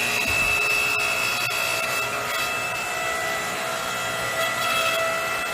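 TIYA 65575-E electric hydraulic log splitter with a 2300 W motor running, its pump giving a steady whine as the ram cycles empty during warm-up.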